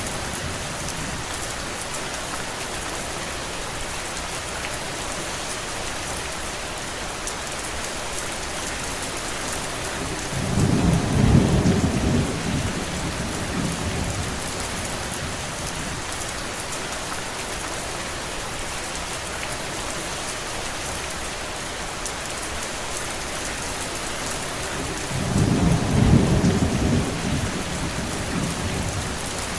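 Steady rain, an even hiss, with two deep rumbles of about three seconds each, one about ten seconds in and one near the end.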